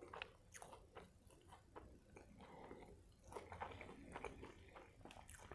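Faint close-up chewing of a Whopper-style burger, with small wet mouth clicks and soft crunches from the fried jalapeño pieces. There is a brief lull a couple of seconds in.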